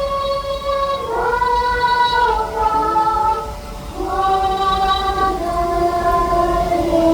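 Soundtrack music of wordless, choir-like voices holding long chords that step to a new chord every second or two, with a brief dip in loudness about three and a half seconds in.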